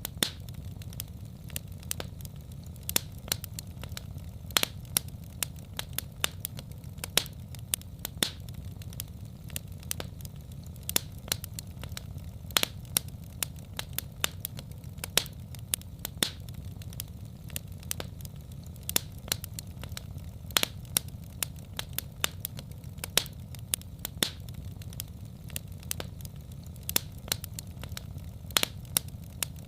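Wood fire in a fireplace crackling: sharp, irregular pops several times a second over a steady low rumble.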